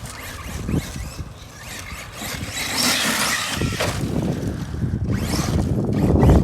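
Arma Mojave 6S RC truck running on a 4S battery: its brushless motor and tyres churning across dirt, quieter at first and getting louder from about halfway through.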